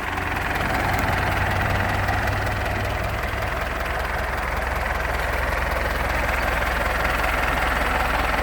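International 574 tractor's four-cylinder diesel engine idling steadily.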